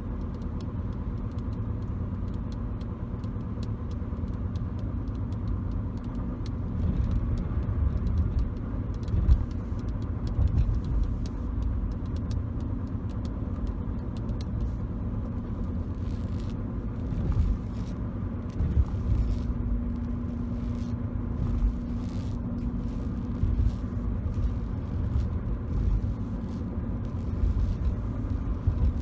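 Steady low road rumble inside a moving car's cabin, with light fingertip tapping and scratching on interior surfaces heard as many small clicks, and one louder knock about a third of the way in.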